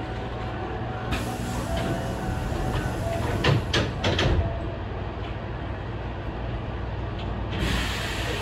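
Electric commuter train standing still, heard from the driver's cab: a steady low hum from its idling equipment, a cluster of sharp clicks and knocks about three to four seconds in, and a hiss of air that starts near the end.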